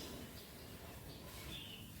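A lull between bursts of bird song, with only faint, brief high bird chirps, the clearest about a second and a half in.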